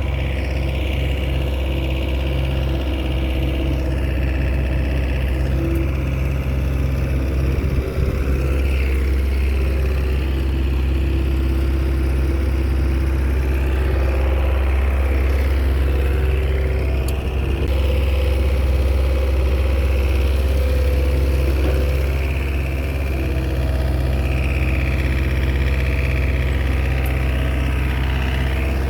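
Komatsu bulldozer's diesel engine running steadily, its deep low hum swelling a little and easing back as it works.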